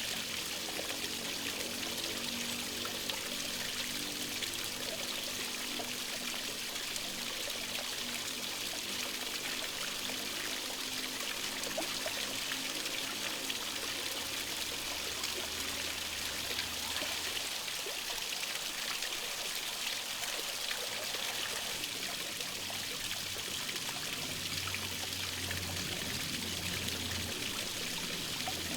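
A small stream running steadily, a constant trickling and splashing of water.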